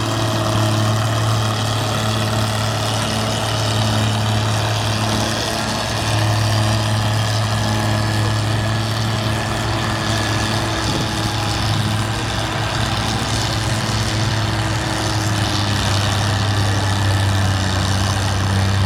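A 1961 Oliver 770 tractor's six-cylinder engine running hard and steady under heavy load, pulling the sled at a tractor pull.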